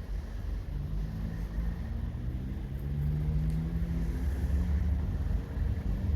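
A train's diesel engine running with a low rumble, growing louder about three seconds in.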